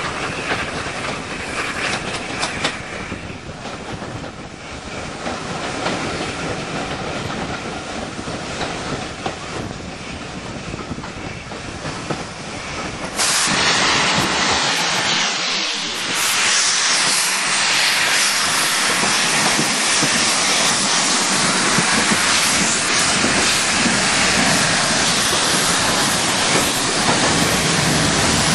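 Passenger train running along the line, heard from a carriage at an open door window: steady wheel-and-rail noise with some clickety-clack. About halfway through it turns suddenly louder and hissier, then holds there.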